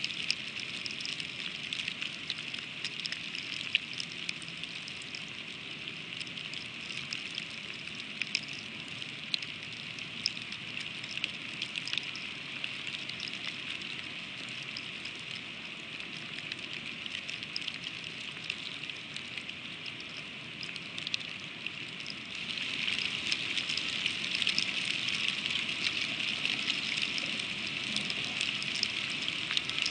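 Freezing rain pattering steadily on an ice-covered eagle nest, a dense hiss of tiny ticks. It grows louder about two-thirds of the way through.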